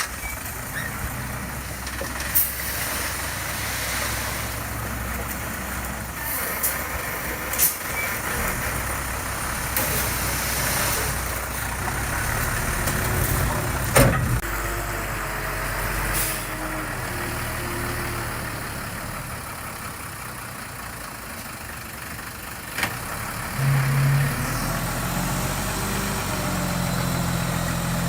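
Diesel engine of heavy earthmoving machinery running steadily under work, with several sharp metallic clanks. Near the end the engine note rises and holds higher.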